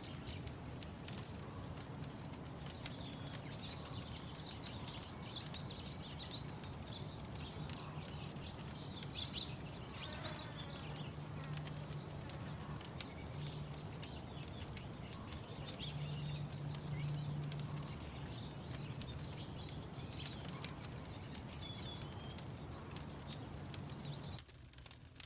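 Wood fire crackling with frequent small pops and snaps, while birds chirp and sing in the background.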